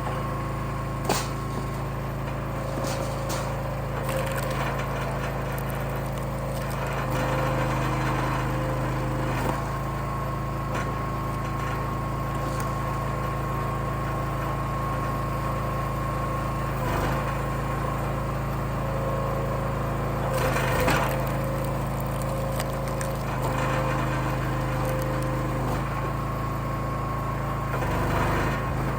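Wolfe Ridge firewood splitter running with a steady engine hum whose note shifts a few times, with scattered knocks and cracks of wood being split.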